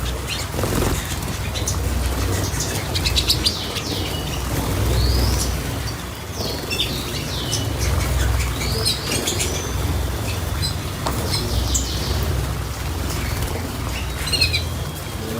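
Small cage birds chirping in short calls, with bursts of wing fluttering and splashing as they bathe.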